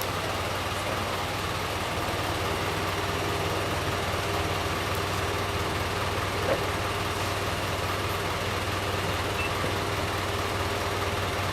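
Truck engine idling steadily, with one short knock a little past halfway.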